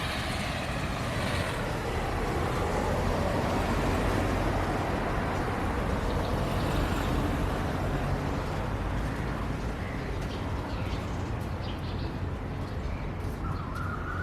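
A vehicle passing on a wet road in the rain: tyre hiss and engine noise swell over the first several seconds and then fade. A bird calls a few times near the end.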